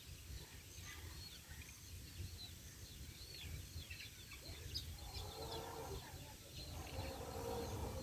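Chicks peeping faintly in many short, quick chirps, with a lower, fuller call about five seconds in and again near the end.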